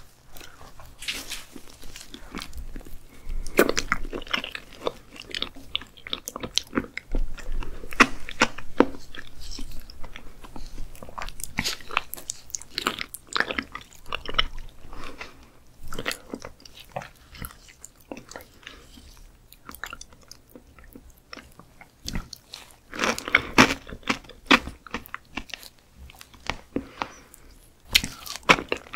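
Close-miked eating of raw skate liver: wet chewing and lip smacks with many sharp mouth clicks, quieter for a few seconds past the middle.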